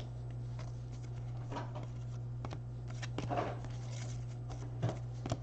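Trading cards being handled and slid against each other: soft scattered rustles and light clicks, over a steady low hum.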